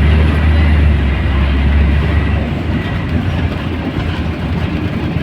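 Scania L113CRL bus's 11-litre straight-six diesel engine running, a deep low rumble that drops away about halfway through.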